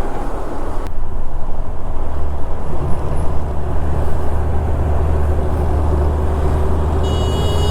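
KTM 390 Adventure's single-cylinder engine running at steady road speed with wind and road noise while riding, under a steady low hum. A vehicle horn starts sounding near the end.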